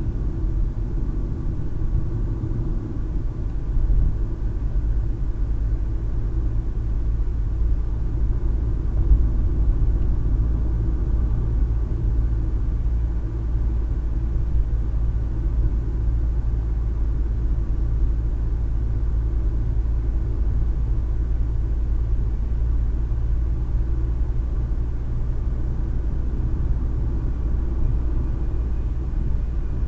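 Steady low rumble of a car being driven, with road and engine noise heard from inside the cabin.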